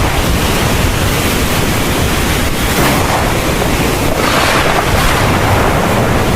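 Heavy rain in a thunderstorm, a dense steady downpour with a deep low rumble underneath. It swells twice, about halfway through and again a little later.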